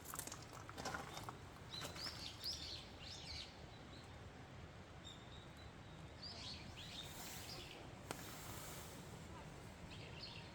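Small birds calling in short groups of high chirps, three times over, against a faint outdoor background; a few soft rustles or steps near the start.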